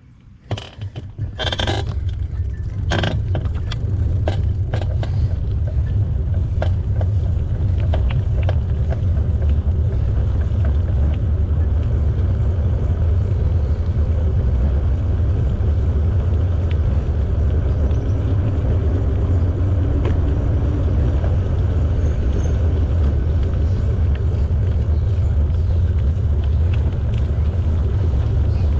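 A few clicks and knocks in the first three seconds, then a loud, steady low rumble of a bicycle riding along the trail: tyre and wind noise on the microphone.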